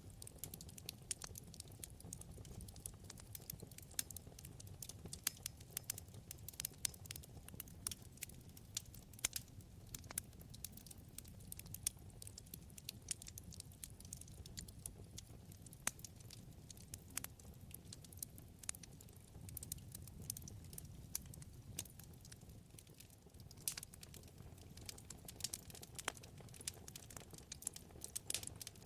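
Wood fire in a fireplace crackling: irregular sharp pops and snaps, several a second, over a low steady rumble of the burning flames.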